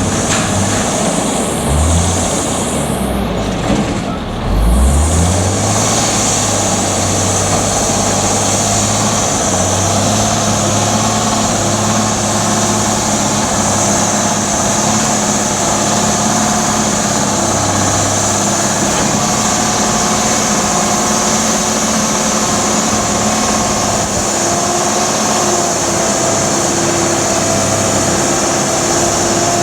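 Autocar front-load garbage truck's engine, with uneven low thumps and a rise in engine speed in the first five seconds, then running steadily with a constant whine and hiss.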